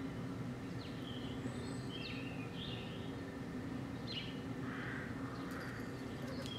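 Birds chirping, a few short, scattered calls, over a steady low background hum.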